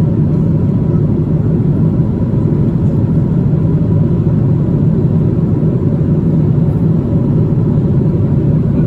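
Steady cabin rumble inside a Boeing 777-200 airliner in flight: jet engine and airflow noise, loud and even, with a faint steady hum above it.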